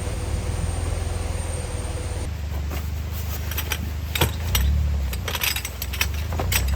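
Low steady rumble of a vehicle, with scattered sharp clicks and light knocks from about three seconds in.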